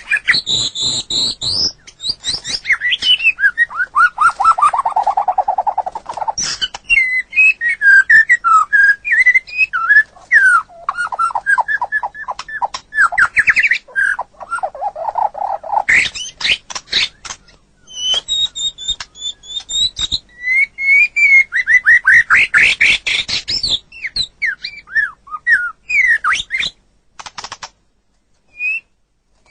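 White-rumped shama (murai batu) singing a long, varied song of rich whistles, rapid trills and fast runs of repeated notes, with a short pause near the end.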